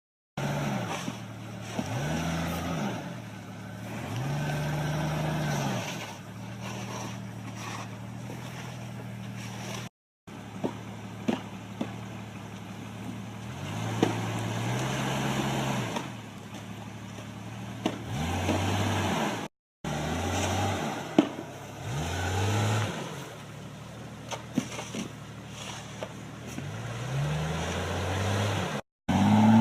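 A vehicle engine revving up and dropping back again and again, with scattered knocks and clicks. The sound cuts out abruptly three times between clips.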